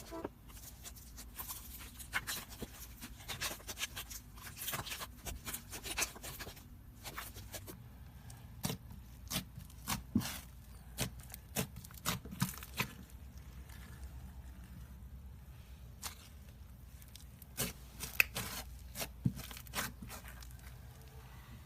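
Slime being mixed and kneaded by hand: irregular sticky clicks and pops, denser at first and more scattered later.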